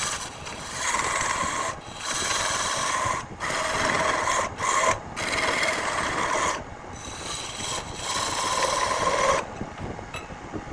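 Spinning jackfruit wood on a lathe being worked, a rasping scrape in several passes with short breaks, falling away about nine seconds in.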